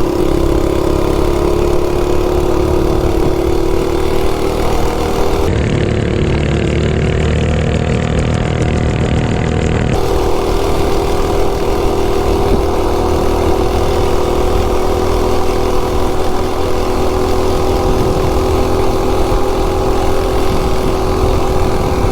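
Coleman RSV minibike's single-cylinder 196cc engine, governor removed, running at high, steady revs through a short open header pipe while the bike pulls at well over 50 mph up a hill.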